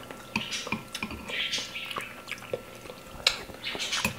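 Close-miked eating sounds: chewing, wet lip smacks and short mouth clicks as food is taken from a spoon and fingers.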